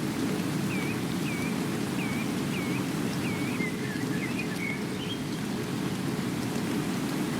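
Steady rain with a bird calling over it: five short repeated hooked notes about two-thirds of a second apart, then a brief burst of twittering around the middle.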